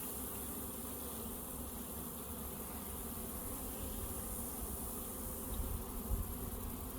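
Honey bees buzzing steadily in a mass around an opened hive, with low wind rumble on the microphone near the end.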